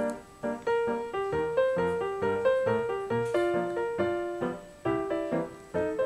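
Background piano music: a melody of struck notes over lower bass notes.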